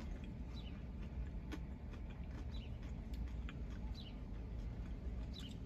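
Chewing a crispy chicken nugget over a steady low rumble. Faint short high chirps glide downward every second or so, and there are a couple of sharp clicks.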